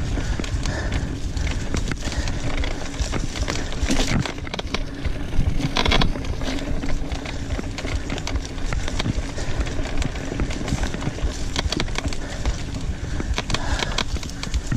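Mountain bike riding over a rough trail: a continuous rumble of tyres on dirt with frequent rattles and knocks from the bike.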